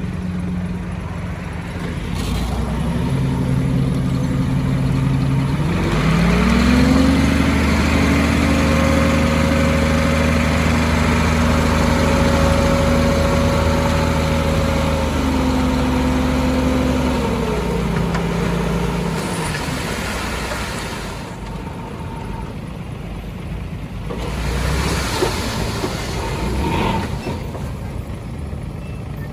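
Heavy diesel engine of earthmoving equipment revving: its pitch steps up twice in the first quarter, holds high and steady for several seconds, then winds back down about two thirds of the way through to a lower, rougher run.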